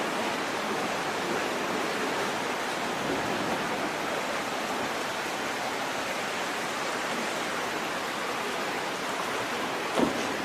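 Steady rushing of flowing water, an even unbroken wash, with one brief knock near the end.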